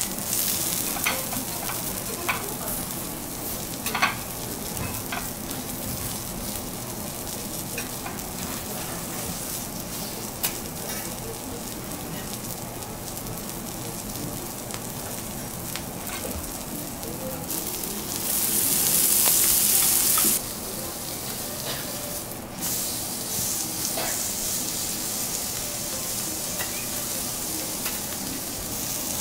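Oysters frying on a hot teppanyaki steel griddle, sizzling steadily, with a few sharp clicks and scrapes of metal spatulas on the steel. The sizzle swells louder for about two seconds a little past the middle.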